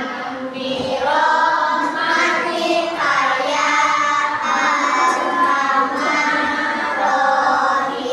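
A group of young children singing together in unison, with long held notes.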